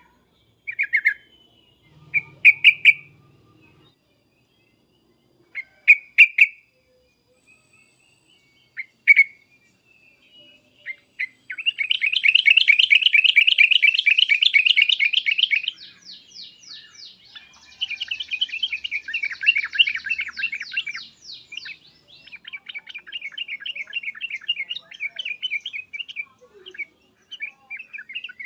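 Yellow-vented bulbul (trucukan) giving agitated 'cuk-cuk' calls: a few short, separate call notes at first, then from about 11 s in long runs of rapid repeated chattering notes, loudest in the first run.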